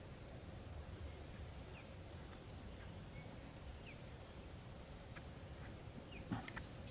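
Faint, scattered short bird chirps over a low steady rumble, with a couple of brief clicks about six seconds in.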